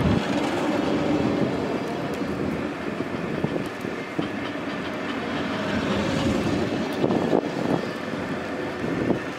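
A train running past on the tracks: a steady rumble, with a short clatter of wheels over rail joints late on.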